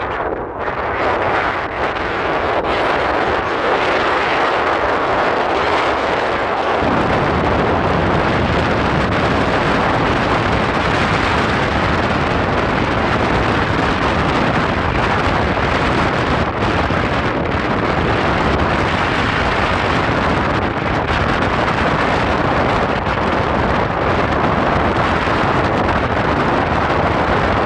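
Vehicle driving, a steady loud noise of tyres and engine mixed with wind on the microphone; a deep rumble comes in suddenly about seven seconds in and holds.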